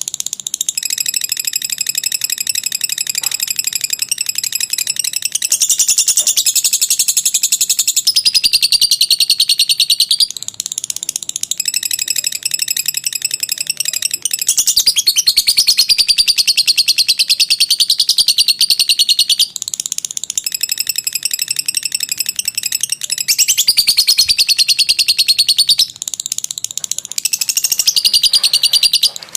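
Lovebird singing its long 'ngekek' chatter: a fast, high-pitched, buzzy trill held in unbroken phrases of several seconds, with short breaks about ten, fifteen, twenty and twenty-six seconds in.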